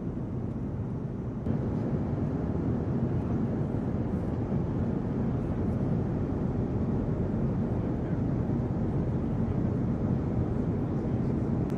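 Fighter jet engines running, a steady rumble that steps up louder about a second and a half in.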